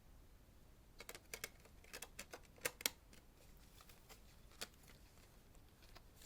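A quick run of light clicks and taps, about ten in two seconds, with one more a little later, from plastic and cardboard packaging being handled while a DVD box set is unpacked.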